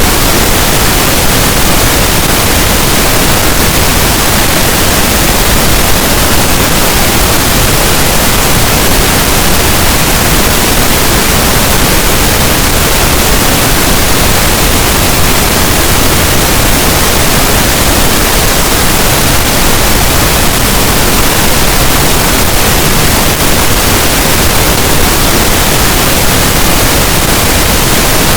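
Continuous pink noise: a loud, steady hiss that does not change.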